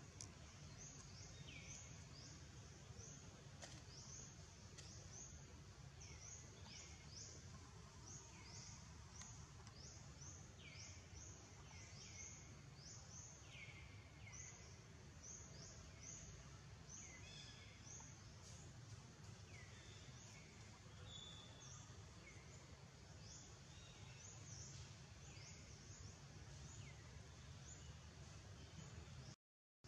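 Faint outdoor ambience: a steady low hum with repeated short, high chirps that fall in pitch, about one or two a second, typical of birds calling in the background. The sound drops out briefly near the end.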